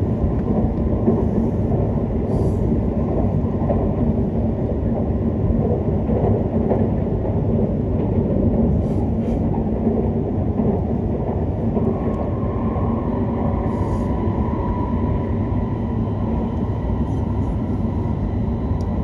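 Hokuriku Shinkansen E7/W7-series train running at speed, heard inside the passenger cabin: a steady rumble of wheels and running gear. A faint steady whine joins it about two-thirds of the way through.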